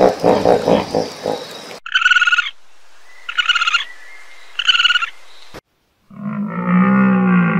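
A series of animal calls. First comes a rapid, croaking rattle of pulses lasting about two seconds. Then three short high calls about a second and a half apart, and after a brief gap a low, drawn-out call.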